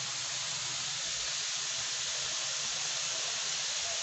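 Chicken pieces pan-frying in hot oil in a frying pan, a steady sizzle as they brown.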